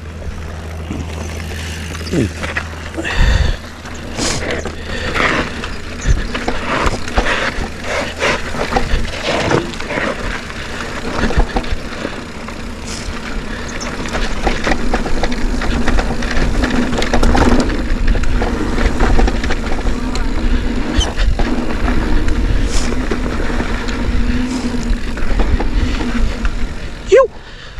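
Mountain bike riding a dirt trail: wind rushing over the camera microphone, with the low rumble of the tyres and frequent rattles and knocks from the bike over bumps.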